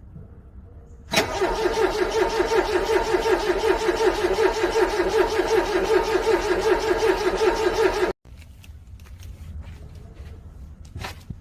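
Starter motor cranking a cold car engine in freezing weather, with an even pulsing of about four strokes a second. It starts about a second in and stops abruptly some seven seconds later without the engine catching. A few faint clicks follow.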